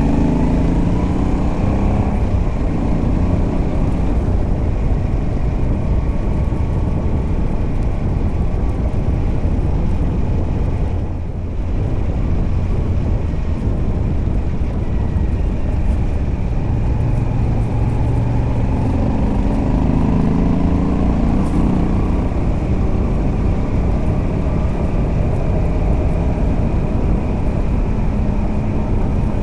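Moto Guzzi V85TT's air-cooled 853 cc transverse V-twin running on the road through its stock exhaust with a Mistral decat pipe. The engine note climbs as the bike accelerates at the start and again about two-thirds of the way through, with a brief dip in level about eleven seconds in.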